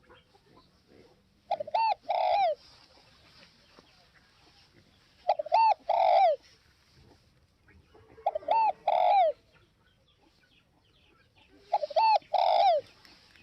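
Spotted dove cooing: four phrases about three and a half seconds apart, each two short coos followed by a longer falling note.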